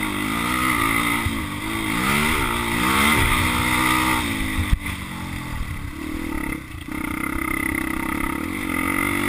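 Motocross bike engine revving up and down as it is ridden, its pitch climbing and falling several times, with a brief drop in throttle about two-thirds of the way through.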